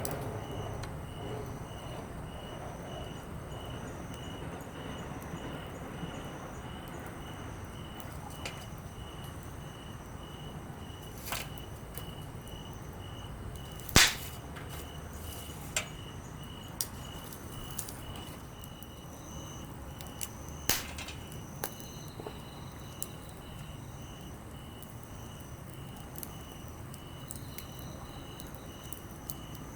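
Campfire of split softwood and hardwood firewood crackling, with scattered sharp pops, one much louder about halfway through. Insects chirp steadily behind it, a pulse about twice a second.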